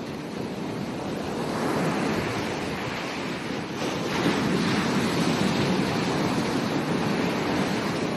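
Ocean waves breaking and washing up a beach, the surf swelling about a second and a half in and again near the middle, with some wind on the microphone.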